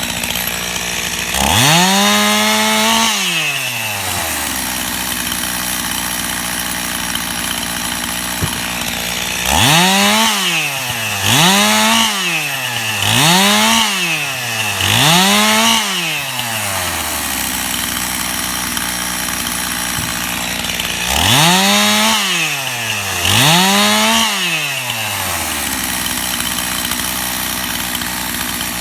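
Gas-powered Stihl chainsaw idling between short bursts of full throttle: seven quick rev-ups, one early, then four in a row, then two more, each rising and falling back to idle within a second or two as it cuts through limb wood.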